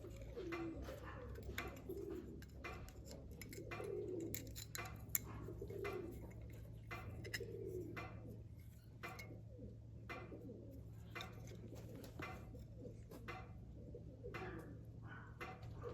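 A bird cooing in low, repeated phrases every second or two, with many light clicks and taps throughout and a steady low hum underneath.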